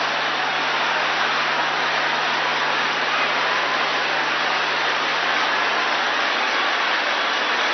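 A large congregation praying aloud all at once, many voices blending into a steady din with no single voice standing out. A faint steady low hum runs underneath.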